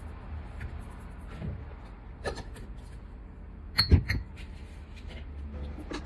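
A few light knocks and a louder clunk about four seconds in, over a low steady hum.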